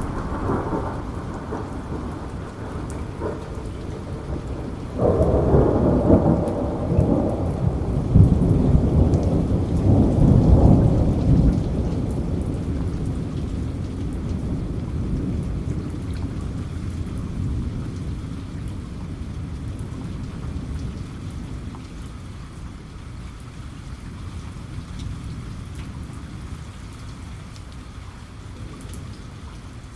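Steady heavy rain with a long clap of thunder that breaks in suddenly about five seconds in, rumbles for several seconds and slowly dies away under the rain.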